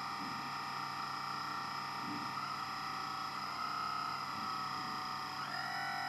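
Electric hydraulic pump of a radio-controlled hydraulic construction model whining steadily as it runs. Its pitch steps up and down a few times as the hydraulic functions are worked.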